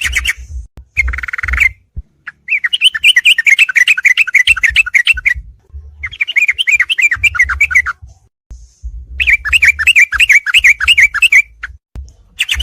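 Yellow-vented bulbul (trucukan) song from a bird-training master recording: a series of fast, bubbling chattering phrases, each one to three seconds long, with short pauses between them.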